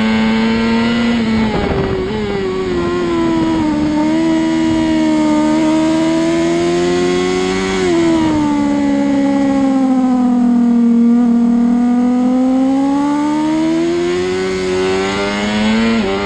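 Racing motorcycle engine heard onboard at high revs. The note drops sharply twice, about two seconds in and again near halfway, as the rider brakes and changes down. It then sags slowly and climbs steadily back up as the bike drives out of a corner.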